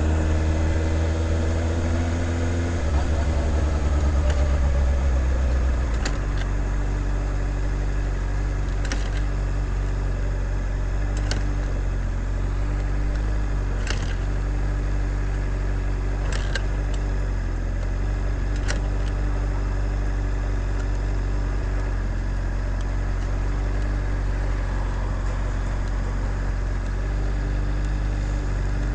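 Motorcycle engine running, louder and higher-revving for the first six seconds, then settling into a steady low running note. A sharp click comes every two to three seconds through the middle of the stretch.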